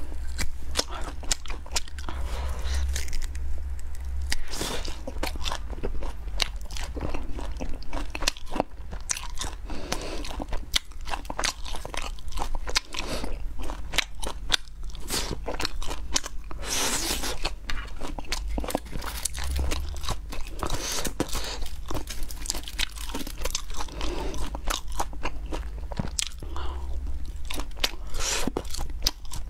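Close-miked biting and chewing of spicy meat skewers: a dense, continuous run of sharp clicks and wet mouth sounds as a person bites chunks off the sticks and chews.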